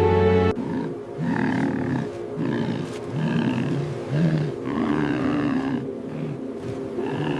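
A large animal's growling calls, short and repeated about twice a second with rising and falling pitch, starting as music cuts off half a second in.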